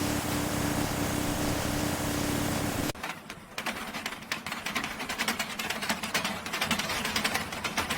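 A steady machine hum with one low tone. About three seconds in it cuts off suddenly, and rapid, uneven mechanical clattering follows.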